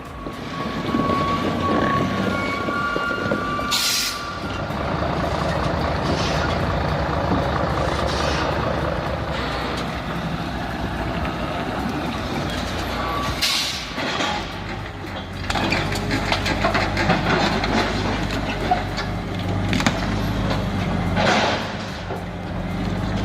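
Heavy logging truck's diesel engine running under load, with short hisses of air three times, about 4, 13 and 21 seconds in.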